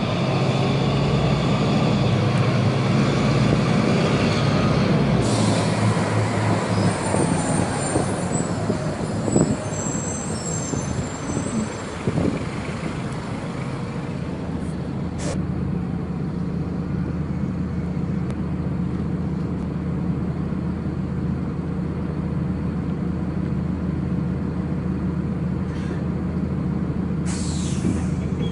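Agrale MT 17.0 LE bus's four-cylinder diesel engine running under way, then slowing, with its pitch falling and a brief high squeal of the brakes. It settles into a steady idle. Short hisses of air brake release come at about five seconds in and again near the end.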